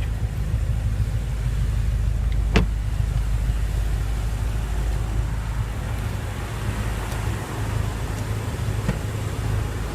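BMW M5 (F10) 4.4-litre twin-turbo V8 idling with a steady low rumble, with one sharp click about two and a half seconds in.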